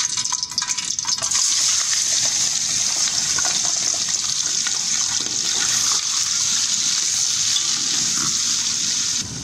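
Raw chicken pieces sizzling loudly as they hit hot oil in an aluminium pot, a steady frying hiss, with a few clicks from the pieces and a slotted spoon against the pot in the first second.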